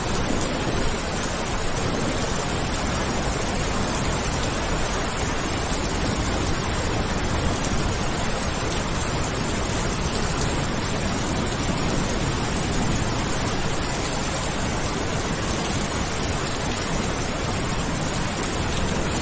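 Steady, even rain with no pattern or breaks. The tail of a low thunder rumble fades out in the first second.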